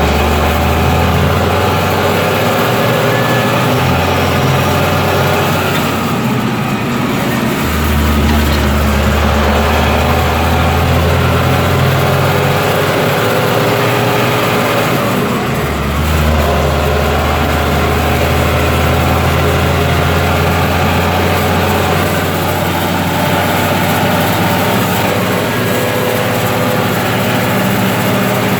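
Deutz-Fahr Agrotron 150.6 tractor's six-cylinder diesel engine running steadily, its deep low hum shifting in steps a few times.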